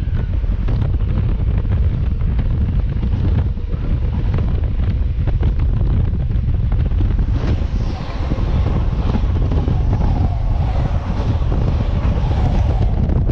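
RER D commuter train running, a loud steady low rumble with wind buffeting the microphone. From about eight seconds in, a faint whine slides down in pitch over the rumble.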